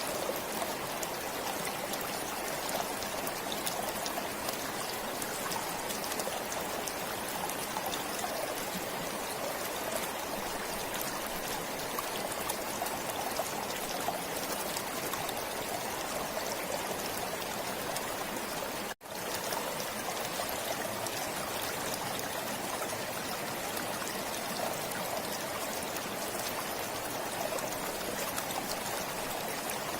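Forest stream flowing steadily, a constant rush and trickle of running water. About two-thirds of the way through it cuts out for a split second and comes straight back.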